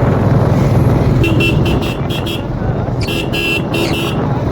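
A motor vehicle's horn tooting in a rapid string of short blasts, starting about a second in and repeating in two bursts, over the steady drone of a motorcycle engine running on the road.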